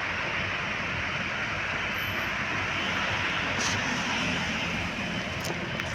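Diesel engine of a Scania P410 fire engine running steadily under a dense hiss, with a few short sharp clicks in the second half.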